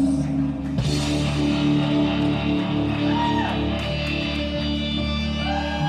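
Live rock band playing the instrumental ending of a song: guitar chords held and ringing over drums, with a hit about a second in and bending guitar notes around the middle and near the end.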